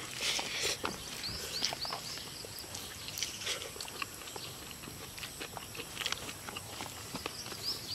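Noisy eating by hand: a mouthful of rice and pork curry chewed with wet smacking and slurping, in many short irregular clicks.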